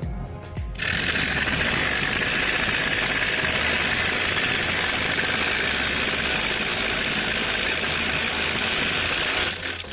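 Homemade model jet engine running: a loud, steady rushing noise that starts abruptly just under a second in and cuts off near the end.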